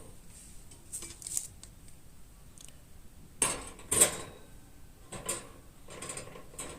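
Sheet-metal parts of a tin-can fire pit being handled, with a series of clinks, knocks and short scrapes. The loudest knock comes about four seconds in.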